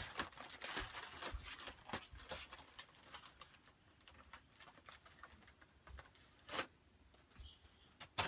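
Irregular faint taps and rustles of things being handled, with one louder knock about six and a half seconds in.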